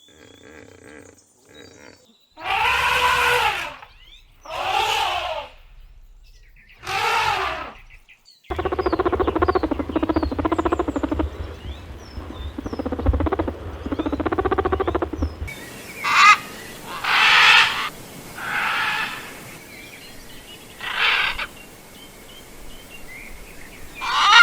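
A run of animal calls from different clips edited together: three loud drawn-out calls about two seconds apart, then a rough pulsing low sound lasting about seven seconds, then several shorter calls with bird chirps behind them.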